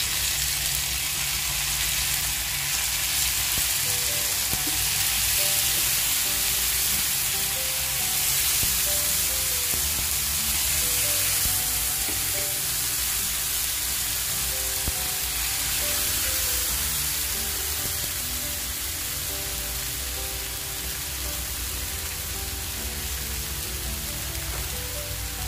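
Canned tuna mixed with a ground chilli-turmeric masala sizzling as it fries in hot coconut oil in a pan: a steady, dense frying hiss. Faint background music plays under it.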